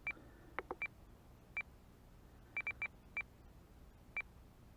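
FrSky Taranis RC transmitter giving about ten short, high key beeps at irregular spacing, some in quick runs of two or three, as its menu value is stepped down while the aileron rate is reduced to 50%.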